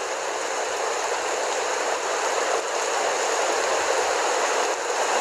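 Steady, even rushing hiss with no distinct events in it.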